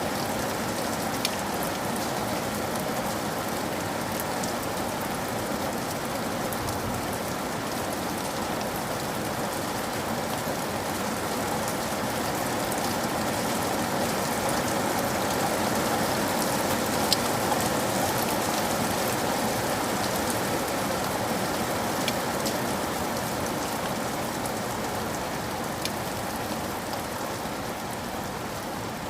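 Steady rain falling: an even hiss with a few sharp drop ticks now and then.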